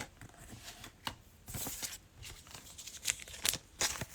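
Trading cards being handled and shuffled, with a brief crinkle of a cellophane pack wrapper: a string of soft, irregular clicks and rustles.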